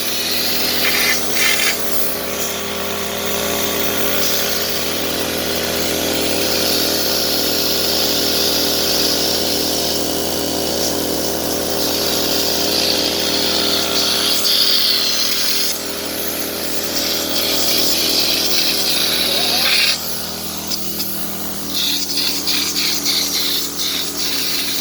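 A motor-driven machine running steadily with a constant hum and hiss. Its sound drops and changes about twenty seconds in.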